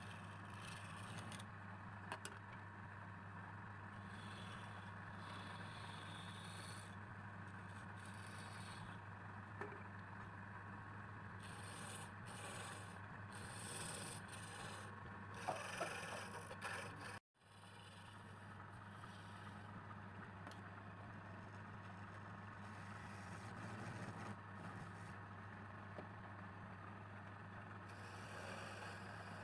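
Electric lathe running with a steady hum while a tool scrapes against the spinning workpiece in intermittent strokes. The sound drops out abruptly for a moment a little past halfway.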